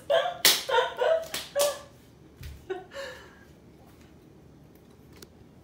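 A man's short voiced sounds and lip smacks while chewing a slice of pastırma, then quiet room tone from about two seconds in.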